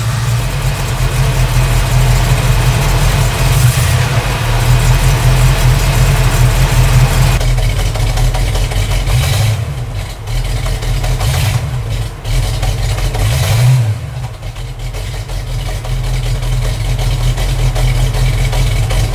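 A 1965 Ford Mustang's 289 cubic-inch V8 with a four-barrel carburetor running steadily at idle. In the second half it is revved briefly three times, with short rises in pitch.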